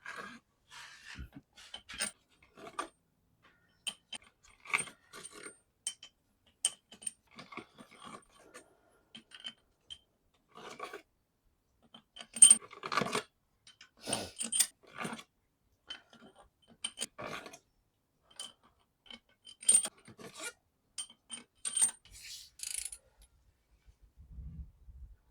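Scattered metal clinks and scrapes of hand work on a VW engine as its cylinder head and new head bolts are fitted, with the loudest knock about halfway through.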